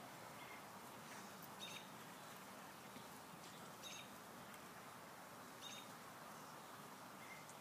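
Faint outdoor background hiss with a bird's short, high chirp repeating three times, about two seconds apart.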